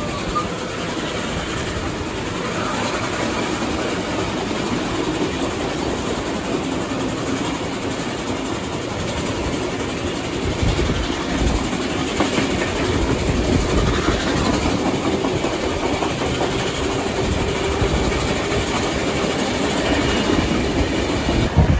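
Steam-hauled passenger train running steadily, heard from on board: a continuous rumble of the carriage with wheels clicking over the rail joints.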